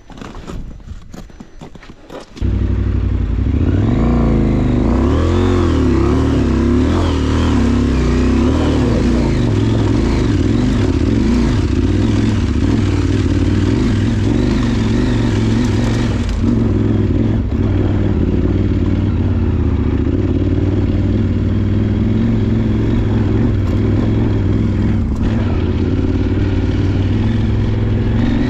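Adventure motorcycle engine running while riding, the revs rising and falling. It cuts in suddenly about two seconds in, after a few faint clicks.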